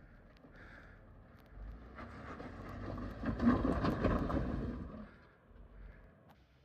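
Off-road rock crawler climbing a rock ledge: the engine revs up about a second and a half in, with tyres crunching and scraping over the rock, then eases off about five seconds in.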